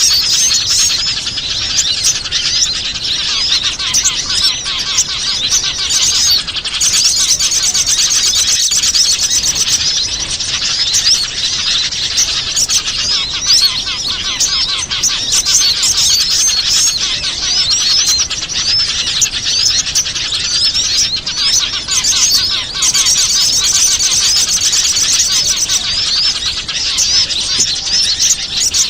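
Bird-lure recording of many small wild birds calling at once: a dense, continuous, high-pitched chatter of quick repeated chirps and trills. It is the kind of call mix played to draw small birds in for trapping.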